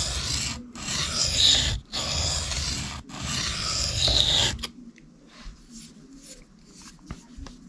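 Knife blade being drawn across a sharpening stone in four long, even scraping strokes, then stopping about two thirds of the way through, leaving only a few faint clicks. The strokes are the reprofiling stage of sharpening, apexing the edge of a Cold Steel 4 Max Scout.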